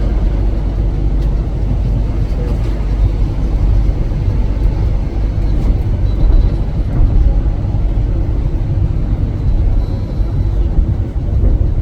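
Ivolga electric commuter train in motion: a steady, loud low rumble of the running train.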